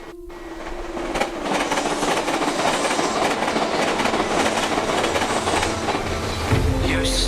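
Tokaido Shinkansen train running over the points, a dense rushing noise with rail clatter building up in the first second or two, sped up to three times normal speed. Music comes in near the end.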